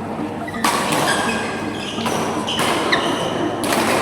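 Sports play on an indoor court: several thuds, and short high-pitched shoe squeaks on the floor, over a hall's background noise.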